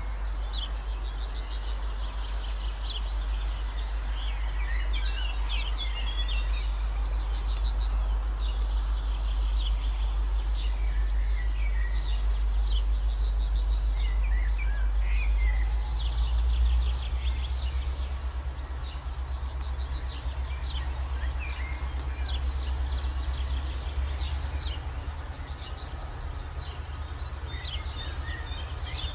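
Songbirds singing in short repeated trills and chirps, over a steady low rumble.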